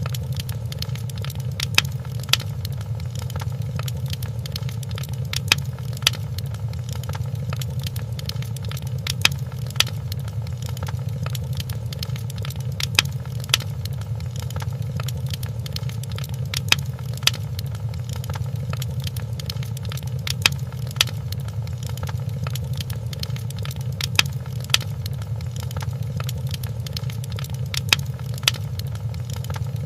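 Fireplace burning: a steady low rumble of the fire with sharp crackling pops, mostly in pairs about every three to four seconds.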